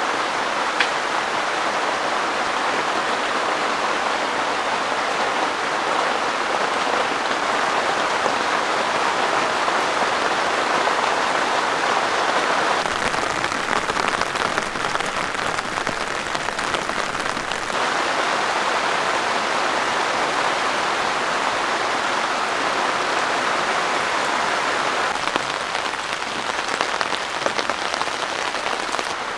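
Heavy rain pouring steadily, a dense, even hiss of drops that never lets up.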